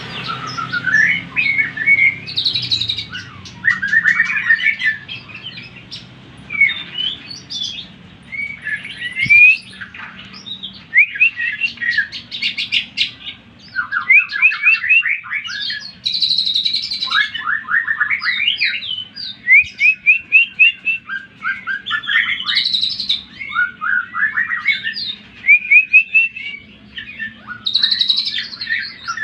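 A cucak ijo (green leafbird) singing a fast, varied competition-style song of whistles and chattering trills, with quick runs of short rising notes repeated several times a second, over a faint low hum.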